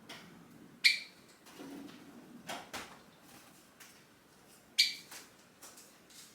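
Pet Java sparrow giving short, sharp calls: two loud ones, about a second in and again near five seconds, with softer chirps between. These are calls to its owner, which the bird makes when the owner moves to leave.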